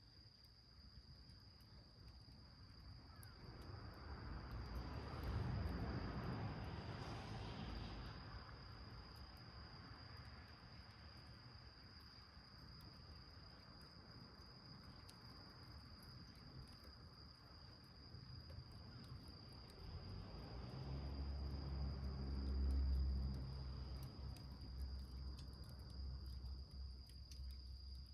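A steady high-pitched insect trill, like crickets, runs under faint crackling from a small wood fire burning in a tin can. A rushing noise with a low rumble swells up twice, about five seconds in and again at about twenty seconds.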